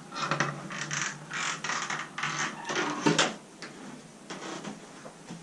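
Irregular scuffing and rustling of someone moving about and handling things in a small room, ending with a sharp click about three seconds in.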